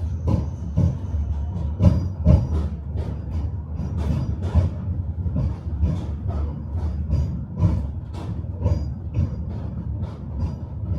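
Tram running along its track, heard from on board: a steady low rumble with the irregular clatter and knocking of the wheels over the rails and joints, and brief faint wheel squeals.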